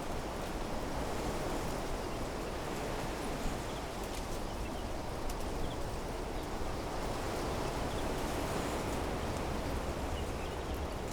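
Wind blowing through trees: a steady rushing noise with a low rumble beneath, and faint scattered high chirps and ticks.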